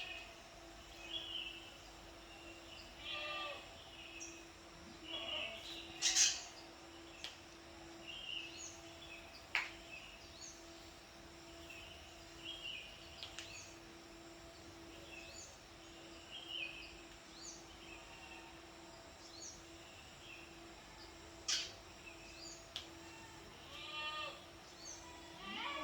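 Seriti swiftlets twittering: many short high chirps and a couple of rattling trills, over a steady low hum, with a few sharp clicks.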